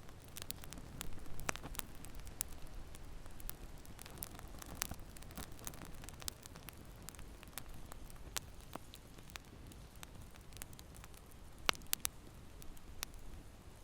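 Fireplace fire crackling, with irregular sharp pops over a low, steady rumble. Two louder pops come near the end.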